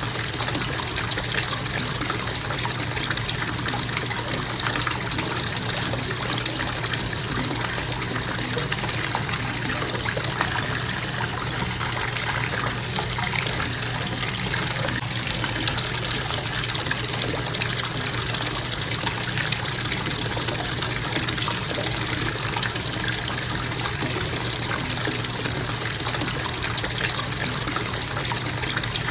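Bathtub faucet running steadily, water pouring into the tub in an even splashing rush with a low steady hum underneath.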